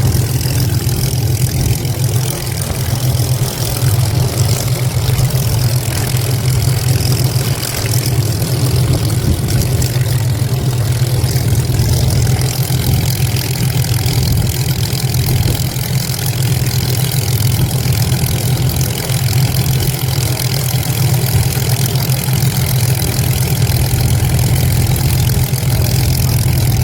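Vintage piston aircraft engine running steadily at a low, even pitch, with wind from the propeller buffeting the microphone.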